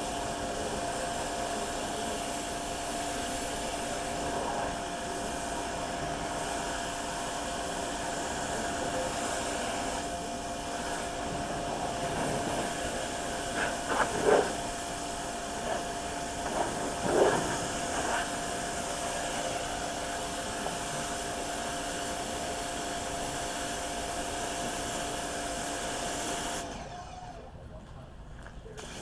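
An electric motor-driven tool running steadily with a whining hum, with a few brief louder knocks in the middle. It cuts off near the end.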